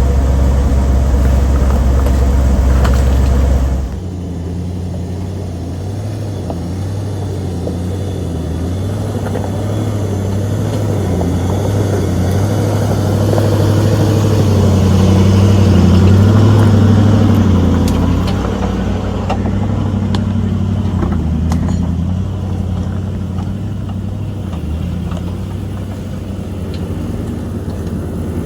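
Vehicle engine running at low speed over rough off-road ground. For the first few seconds there is a steady low drone that cuts off abruptly. The engine then climbs in pitch and loudness through the middle and eases back down.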